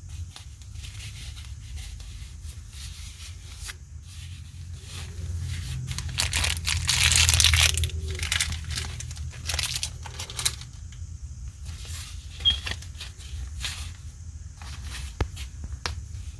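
Packaging of a sixth-scale collectible figure being unwrapped by hand: irregular rustling and crinkling with scattered sharp clicks. The sound swells for about two seconds partway through, like something being torn, over a steady low hum.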